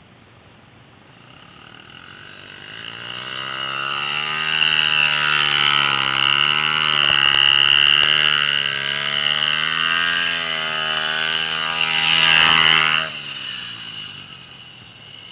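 Pit bike engine revving, growing louder over several seconds with its pitch wavering up and down, then dropping away abruptly about thirteen seconds in.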